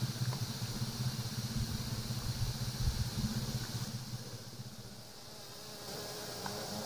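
A flying insect buzzing, with a wavering low drone that fades about four seconds in and picks up again near the end, over a steady high-pitched insect hiss of the rain forest.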